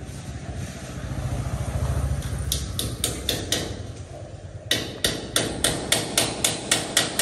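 Hammer blows striking repeatedly at about three a second, a short run a few seconds in and a longer run of about nine in the second half, over a low rumble in the first half.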